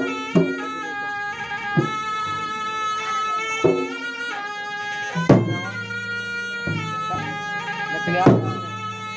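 Traditional Makassar gendang music: a reedy shawm-like wind instrument holds a steady, drone-like melody while the drums strike sharp, spaced beats, the loudest about five seconds in.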